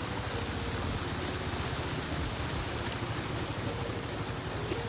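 Steady wind rush and low buffeting on the microphone of a moving motorcycle.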